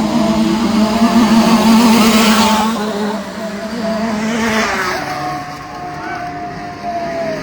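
Small two-stroke motocross bike engines running hard on the track. One engine pitch holds steady, then gives way about halfway through to another that drifts slowly down.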